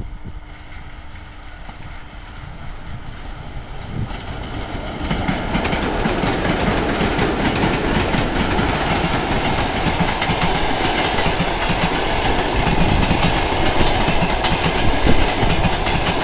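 Passenger train hauled by a pair of ChS7 electric locomotives passing through a station: the rumble builds over the first five seconds, then runs steady and loud with the clatter of wheels over the rails.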